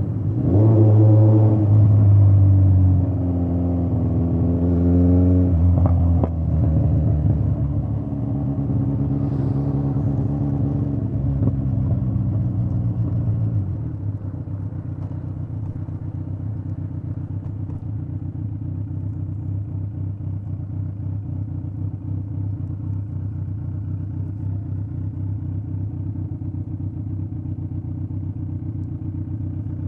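Straight-piped Kawasaki Z900 inline-four exhaust, the engine pulling at low, shifting revs for the first dozen seconds or so. It then settles at about 14 seconds into a steady idle.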